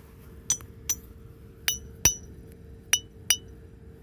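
A heavy, corroded piece of metal that looks like wood being knocked against metal: six sharp clinks, mostly in pairs, each with a short high ring, the ring showing that it is solid metal.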